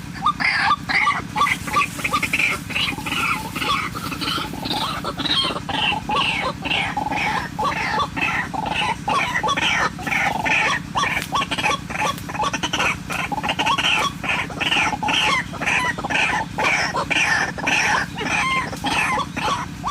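White-breasted waterhen (ruak-ruak) calling: a long run of harsh, repeated notes, two or three a second, over a steady low hum.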